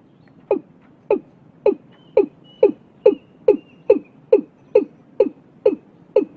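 Male watercock calling: a steady series of short notes, about two a second and slowly quickening, each one dropping steeply in pitch.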